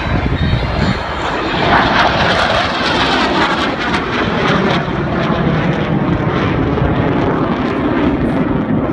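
F-16 fighter jets of the USAF Thunderbirds passing: loud, continuous jet noise that peaks about two seconds in, then falls lower in pitch as it goes on.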